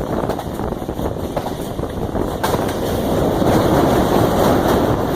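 Passenger train running, a steady rumble with rushing wind noise. A sharp click comes about two and a half seconds in, and the noise grows slightly louder after it.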